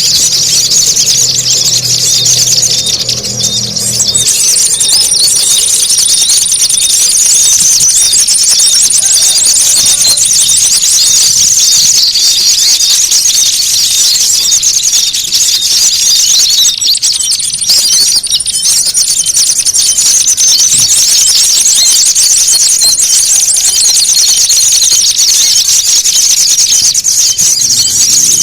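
Bird-lure recording of many small songbirds calling at once: dense, rapid, high-pitched chattering and twittering with no pauses, over a thin high trill that drops out briefly a few times.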